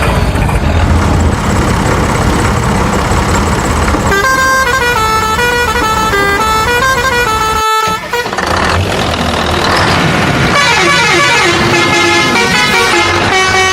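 Vehicle sounds: a heavy engine running, with a horn playing a tune of stepping notes from about four seconds in, cut off suddenly near eight seconds, then more horn honking over the engine.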